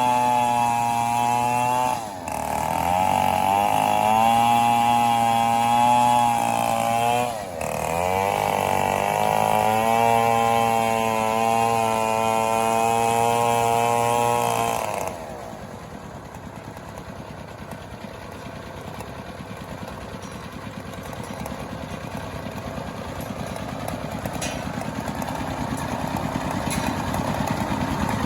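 Two-stroke chainsaw running at high revs, its pitch wavering under load and dropping briefly twice as the throttle eases. It cuts off abruptly about halfway through, leaving a fainter, rougher engine sound that slowly grows louder toward the end.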